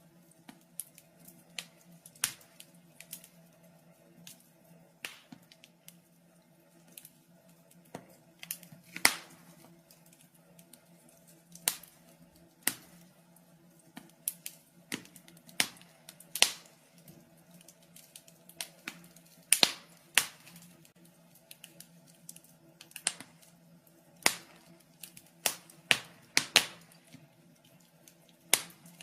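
Wood fire crackling in a fireplace: irregular sharp pops and snaps at uneven intervals, some louder than others, over a faint steady hum.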